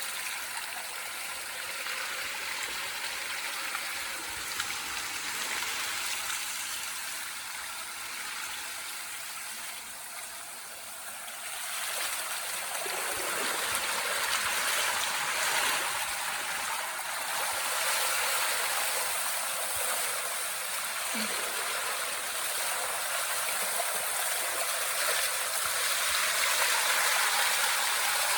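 Water running and trickling through a debris-clogged culvert drain, a steady rushing that grows louder partway through.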